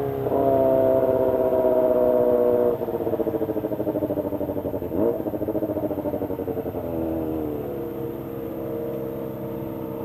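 Kawasaki ZX-25R's 250 cc inline-four revving high under way, its pitch slowly falling. It drops in loudness about three seconds in, then runs on pulsing, with a quick dip and rise in pitch about five seconds in.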